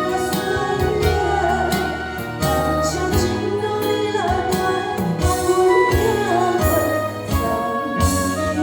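A band playing a slow pop song with a steady beat, with a sung melody over it.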